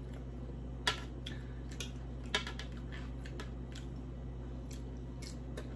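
Close-up eating sounds from chewing a mouthful of poke: scattered soft clicks and wet smacks, two of them louder, about a second in and about two and a half seconds in.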